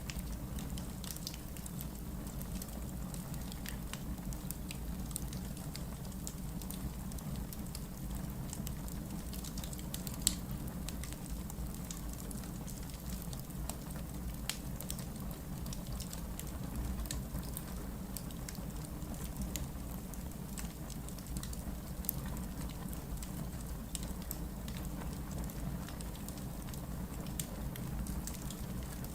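Wood logs burning in a fireplace: a steady low rumble of flames with scattered small crackles and pops, one sharper pop about ten seconds in.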